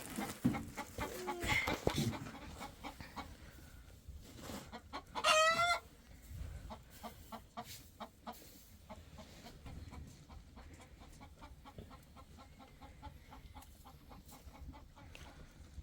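Chickens clucking, with one loud call of wavering pitch about five seconds in, then a steady run of quieter, quick clucks.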